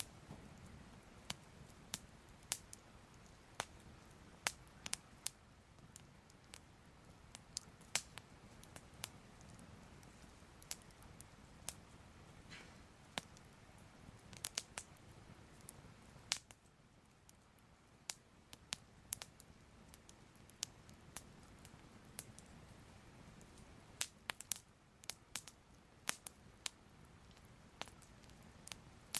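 Soft fire crackling: irregular sharp pops and snaps, a few a second and now and then in quick clusters, over a faint steady low rumble.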